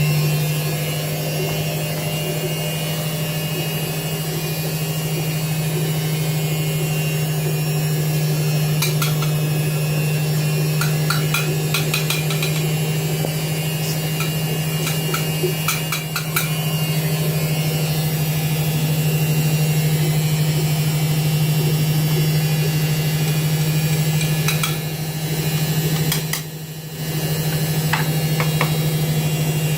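Washing machine running with a steady low hum, with a run of clicks and knocks through the middle and a brief drop in the hum near the end.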